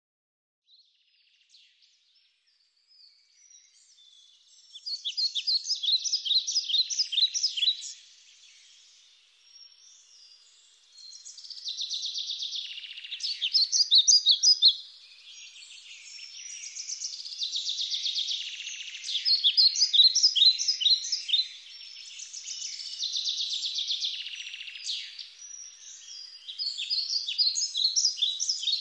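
A songbird singing in repeated phrases of rapid, high chirping notes, each phrase a few seconds long with short pauses between, starting about four seconds in.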